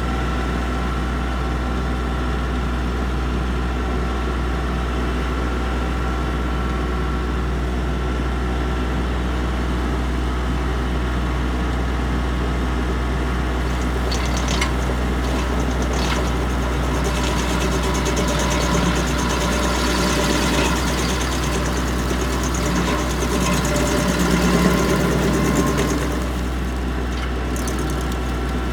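Tractor engine running steadily, driving a PTO stump grinder. About halfway through, sharp cracks and a rough grinding noise come in as the cutter bites into a hardwood stump. The grinding is loudest a few seconds before the end, then eases off.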